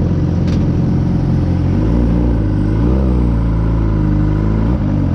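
Suzuki GSX-R 600 inline-four with an M4 aftermarket exhaust running at low revs. Its note shifts about two seconds in, rises and falls once in the middle, and drops back to the earlier steady note near the end. A short click sounds about half a second in.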